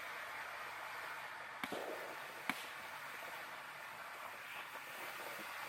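Ground fountain firework spraying sparks with a steady hiss, with two sharp pops about one and a half and two and a half seconds in.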